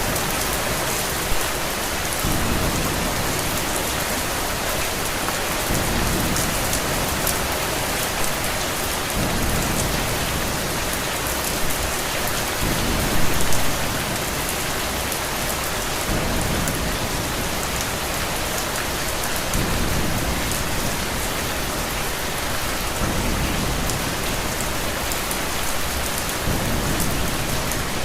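Steady rain with low rumbles of thunder that swell and fade every three to four seconds. A brief burst of louder clicks comes about halfway through.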